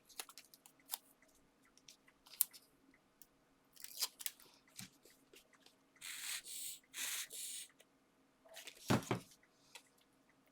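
Hands handling paper craft materials and foam pads: scattered ticks and short crinkles, two longer rustles past the middle, and a single thump near the end.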